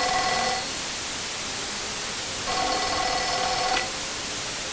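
Steady TV static hiss, with a pitched ringing tone that fades out about half a second in and sounds again for about a second and a half near the middle.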